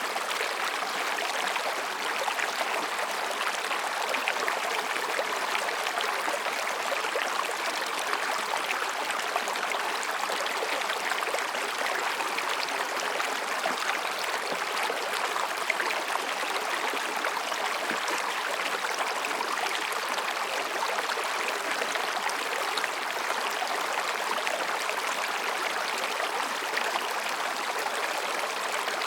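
Mountain stream babbling over and between rocks: a steady rush and gurgle of flowing water.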